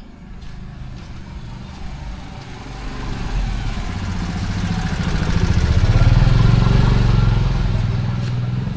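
A motorcycle engine running as it approaches and passes close by, growing louder to a peak about six seconds in, then starting to fade.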